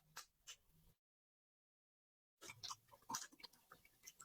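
Faint chewing and small wet mouth clicks of people eating, a few scattered clicks at a time, broken by a stretch of total silence a second or so in that lasts about a second and a half.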